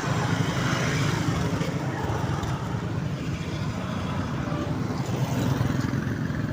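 Motor vehicle engines running steadily, with a low rumble and road noise.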